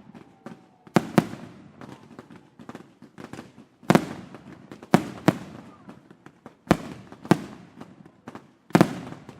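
Daytime fireworks display: about eight sharp shell bursts go off at irregular intervals, each one echoing away, with smaller pops and crackles in between.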